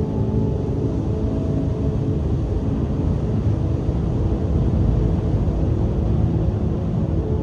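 Strong wind blowing across the microphone with surf breaking on the shore: a steady, heavy low rumble with no distinct single crashes.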